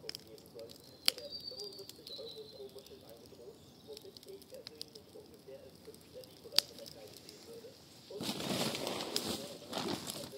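Wood campfire crackling quietly, with two sharp pops, then a much louder, dense crackling rustle from about eight seconds in.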